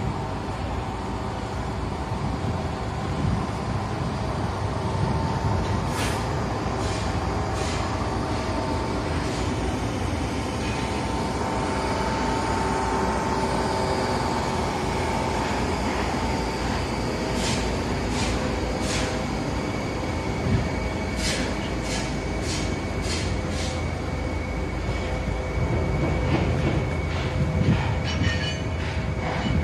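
Meitetsu electric train running past: a steady rumble with a held whine, and clusters of sharp clacks from the wheels in the second half.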